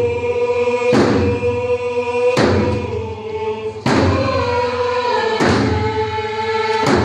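A group singing a Pacific Northwest Coast song in unison, holding long notes, over slow, even drum beats about once every one and a half seconds.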